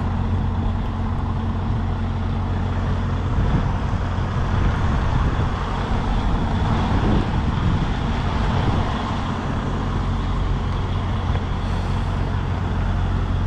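Semi tractor's diesel engine running steadily at low revs as the tractor-trailer backs up.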